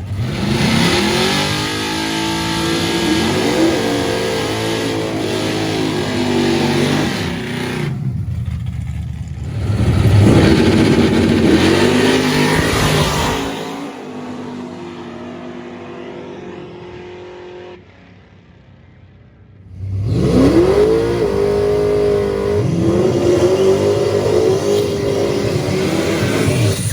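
Drag race car engines revving and accelerating hard, pitch climbing and dropping through gear changes, in several separate bursts with a quieter stretch near two-thirds of the way through.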